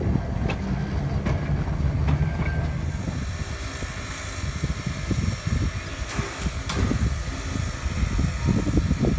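Railway cars rolling past on the track with a low rumble. About three seconds in, this gives way to a steady hiss and lighter rail noise, with a few sharp clicks.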